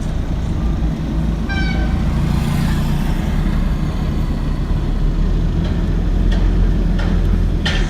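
A train running past with a steady low rumble and a brief horn toot about a second and a half in. A few sharp clacks come near the end.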